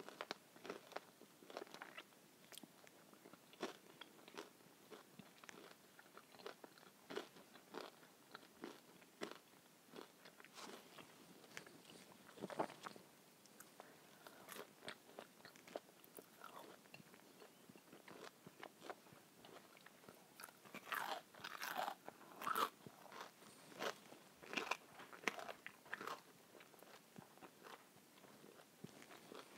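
A person biting and chewing crispy food (breaded schnitzel and fries) close to the microphone: a steady run of small crunches and mouth clicks, denser and louder about two-thirds of the way through.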